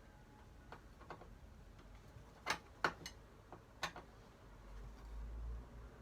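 Irregular sharp clicks and taps from hand tools and screws being handled while screws are fitted into the wooden toolbox, about six in the first four seconds, with a brief low rumble near the end.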